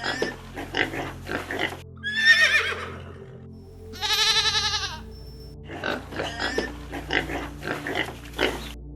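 Farm animals calling over background music: runs of short grunts near the start and again in the second half, a wavering cry, and a longer, pulsing call around the middle.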